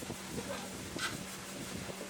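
Factory machinery running with a steady hum under a noisy background, with light knocks and a sharper click about a second in.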